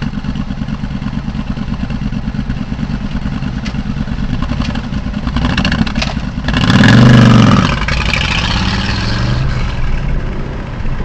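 A group of motorcycles riding past with a steady engine rumble. About two thirds of the way through, one bike passes close and is much louder, its engine pitch rising and then falling.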